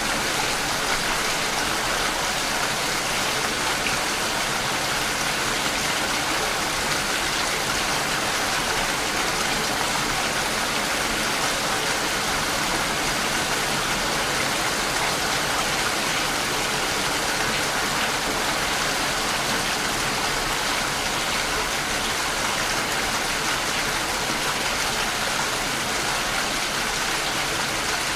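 Steady rain falling on the outside of a house, an even hiss with no let-up.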